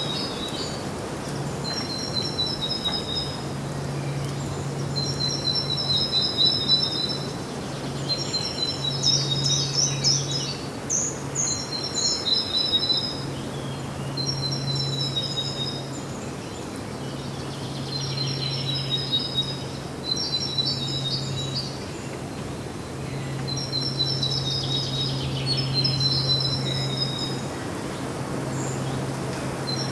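A songbird repeating a short, high trilled phrase about every two seconds, with a few fuller, busier phrases mixed in, over a steady outdoor noise bed and a low hum that comes and goes.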